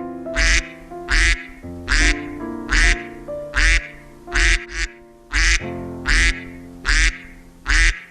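A duck quacking over and over, about a dozen loud quacks spaced a little under a second apart, with two coming close together about halfway through.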